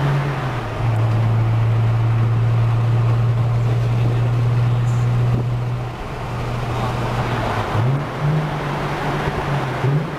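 A car's engine and exhaust drone steadily at highway cruise, heard from inside the cabin over road noise. The pitch drops slightly about a second in, the level eases off about 6 seconds in, then the pitch rises again near the end as the throttle changes.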